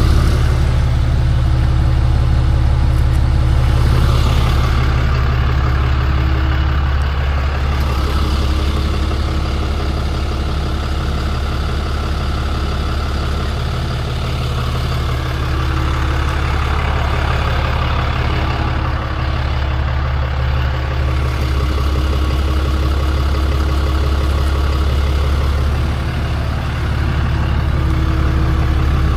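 Tow truck's engine running steadily with a deep, constant hum, the pitch shifting slightly now and then.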